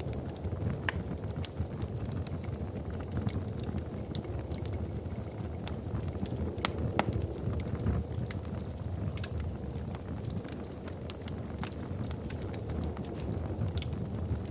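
Wood fire in a fireplace crackling, with a steady low roar from the flames and frequent irregular sharp pops and snaps, the loudest about seven seconds in.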